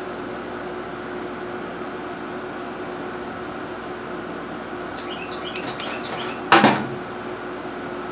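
A steady mechanical hum, with faint high chirps and one brief loud knock about six and a half seconds in.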